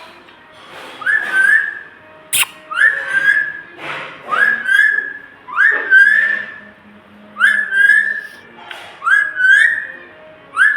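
Pet green parrot whistling over and over, each whistle a quick upward swoop that levels off into a short held note, about seven times at an even pace. A sharp click sounds about two seconds in.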